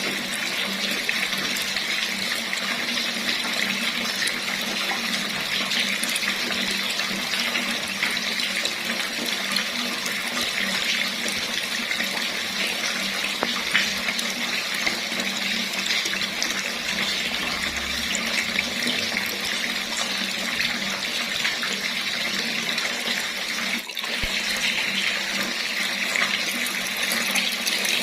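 Water running from a tap in a steady, even stream, with a short dip in level near the end.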